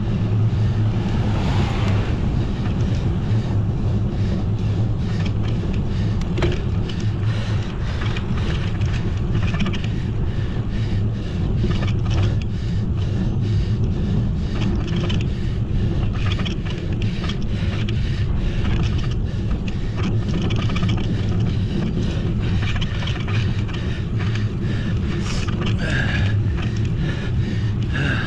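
Wind rushing and buffeting over the microphone of a camera on a moving bicycle, with road noise beneath: a steady, loud low rumble with constant irregular flutter.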